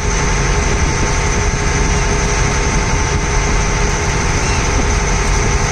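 Ferry launch's engine running steadily: a loud, even low drone with a hiss above it.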